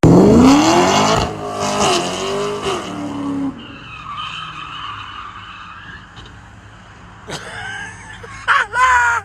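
Car engine revving up hard with tires skidding, loud for the first few seconds, then a quieter running stretch, and another short squeal near the end.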